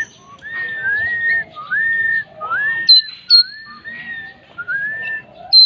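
A bird singing a run of clear whistled notes, each about half a second long, rising and then holding level, one after another. Three short, sharp higher notes cut in about halfway through and at the end.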